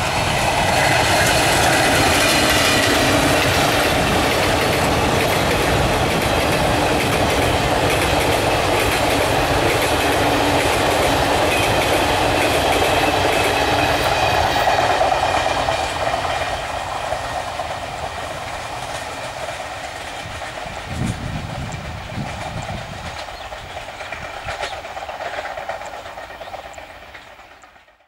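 Indian Railways passenger train passing at speed, its wheels clattering over the rail joints. The sound eases after about fifteen seconds and fades out near the end.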